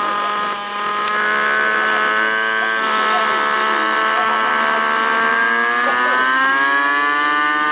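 Radio-controlled model helicopter running with a steady whine of several tones. The pitch starts rising about five seconds in as the rotor speeds up.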